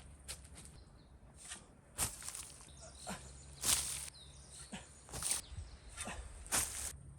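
Irregular rustles and scrapes, about a dozen in a few seconds and some much louder than others, over a steady high-pitched insect drone.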